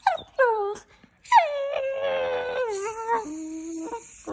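A dog whining: two short falling whines, then one long, held whine-howl of about two seconds that ends on a lower note.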